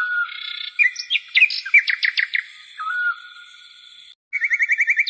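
Birds chirping and singing: short whistled calls and rapid trills, with a fast run of about ten notes a second near the end. The sound drops out for a moment just before that run.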